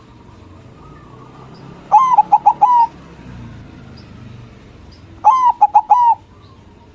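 White zebra dove (perkutut) cooing twice, about three seconds apart: each phrase a quick run of short, clipped notes ending on a longer one.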